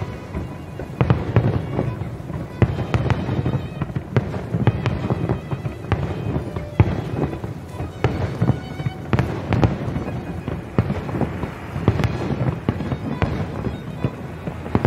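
Aerial firework shells bursting in a rapid, uneven barrage of bangs and booms, the loudest about seven seconds in.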